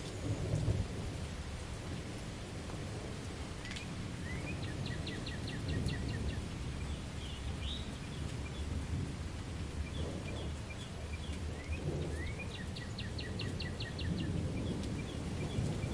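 Steady rain with a low rolling rumble of distant thunder. A small bird sings over it in quick trills of high chirps, once about five seconds in and again near the end, with single chirps in between.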